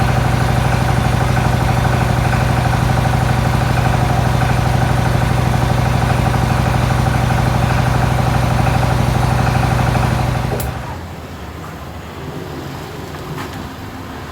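An engine idling steadily with a fast, even pulse, then dying away about ten and a half seconds in.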